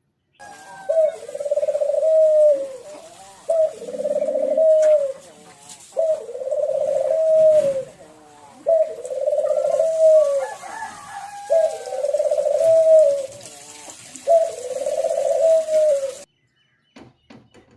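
A bird calling over and over: six long, low, pulsing calls, each about a second and a half, repeated every two and a half seconds or so, then cut off suddenly near the end.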